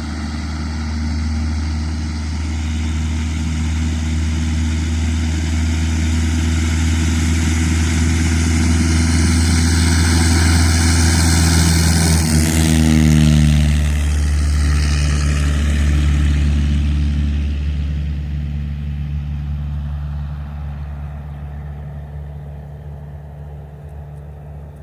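Cessna 172's piston engine and propeller growing louder as the plane comes in to land, passing by with its note dropping in pitch about halfway through, then fading away.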